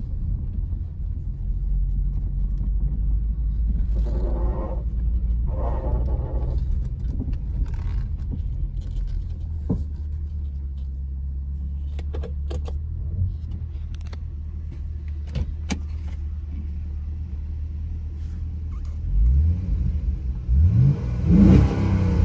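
HSV E3 Grange's 6.2-litre LS3 V8 idling at operating temperature after a hot start, heard from inside the cabin as a steady low rumble. A few light clicks come in the middle, and near the end the revs rise briefly several times.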